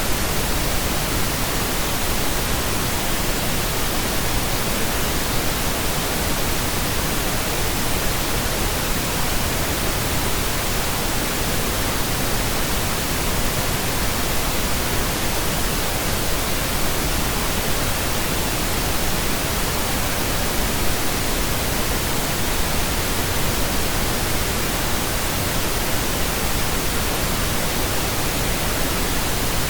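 Steady pink noise: an even, unchanging hiss spread across all pitches, with nothing else breaking through.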